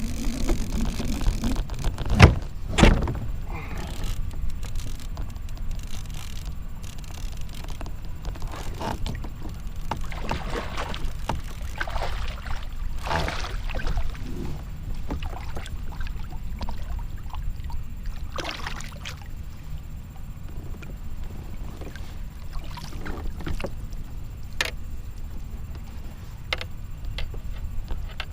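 Handling knocks and rustles aboard a kayak over a steady low rumble of wind on the microphone, with two sharp thumps about two and three seconds in.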